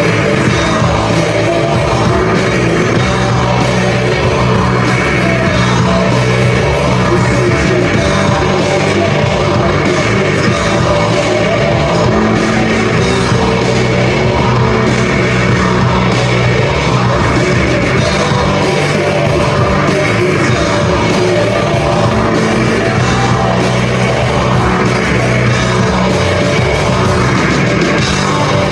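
Live rock band playing loudly, with sung and yelled vocals over guitars and drums.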